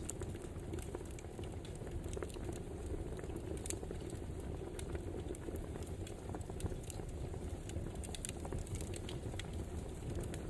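Wood fire burning: a steady low rush with frequent, irregular sharp crackles and pops.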